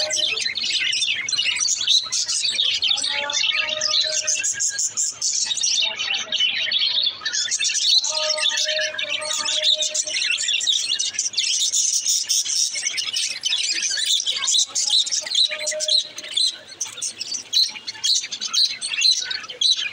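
Budgerigars chattering and warbling without pause, a dense stream of fast, overlapping chirps.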